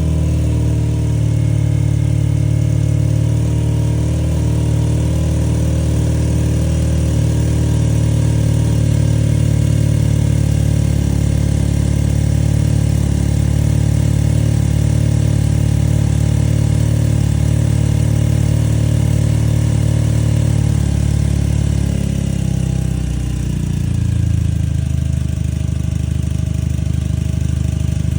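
BMW R nineT's boxer-twin engine idling steadily through its exhaust with the dB killer removed, a deep, bass-heavy note, wavering briefly near the end. The bike is in neutral, so the exhaust flap valve keeps it from sounding very loud.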